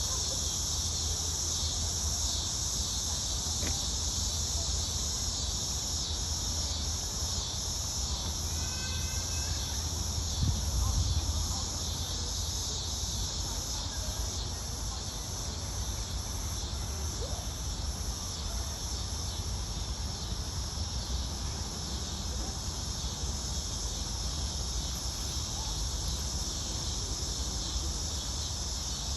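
Steady, high-pitched insect chorus with a low rumble underneath. A short chirp comes about eight seconds in, and a louder bump about ten seconds in.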